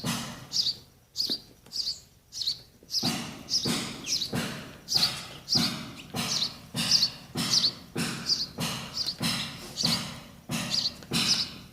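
Baby sparrows chirping over and over while waiting to be fed, about two short, high chirps a second, with a brief lull about a second in.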